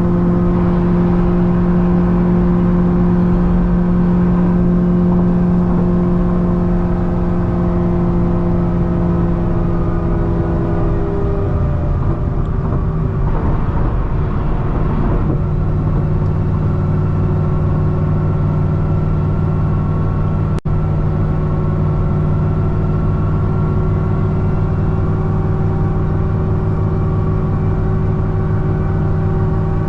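Supercharged V8 of a modified C6 Corvette ZR1 running at highway cruise, with a steady drone over road noise. The pitch eases slightly over the first ten seconds, turns rougher around thirteen to fifteen seconds in, then settles into a steady lower drone. There is a momentary dropout about twenty seconds in.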